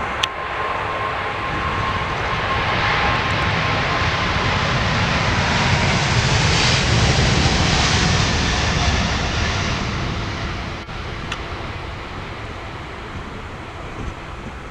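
Jet engines of a Boeing 777-200ER at takeoff power, a loud roar that builds to a peak about midway and then fades as the airliner passes and climbs away. A steady engine whine is heard early, slowly sinking in pitch as it fades.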